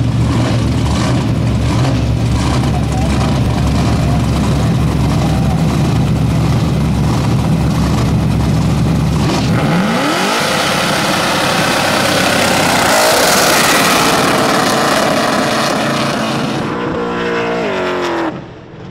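Holden Commodore ute's LS1 V8 idling, then revved hard about halfway through and held at high revs through a burnout, with the noise of tyres spinning on the asphalt. Near the end the revs fall away.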